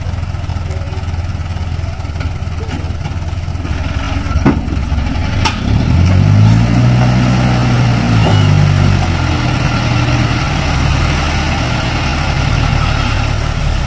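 Diesel engine of a Fuso Canter dump truck running at idle, then revving up about six seconds in, holding the higher speed for a few seconds and easing back. Two sharp knocks come just before the rev.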